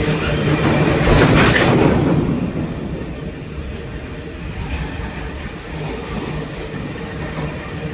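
A train, hauled by two locomotives, running past on the rails. It is loudest about one to two seconds in, then dies down to a steadier rumble over a low, even engine hum.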